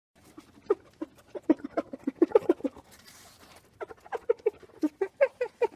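An animal making quick runs of short, low calls, several a second, with a pause about halfway through.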